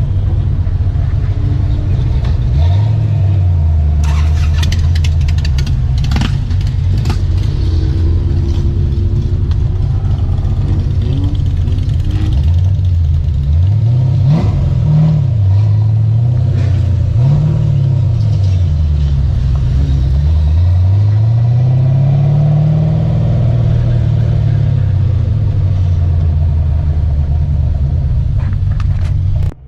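Car engine pulling hard under acceleration, its pitch climbing and then dropping at each gear change, about five pulls in a row. A run of short crackles sounds about four to seven seconds in.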